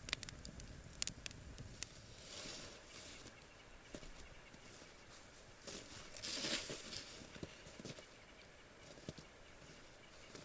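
Faint rustling with scattered small crackles and clicks, swelling into louder rustles about two and a half seconds in and again around six and a half seconds.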